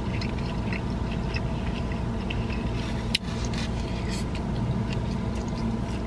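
Car air conditioning blowing hard inside the car cabin, a steady hum, with small clicks and smacks of eating over it and one sharper click about three seconds in.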